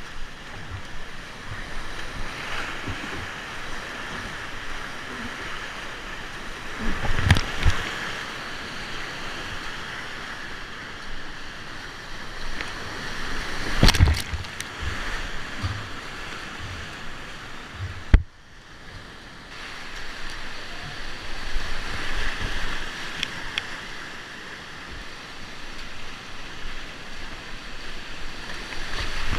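Whitewater rapids rushing at high flow, a steady hiss of churning water. A few short, loud hits stand out against it, the last a sharp click after which the rush is briefly quieter.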